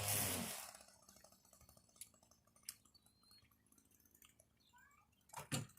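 Pressure washer rinse nozzle being fitted into the wand's quick-connect: a hiss fading out in the first half second, then faint clicks and handling noises, a sharper click about two and a half seconds in, and a louder pair of clacks near the end.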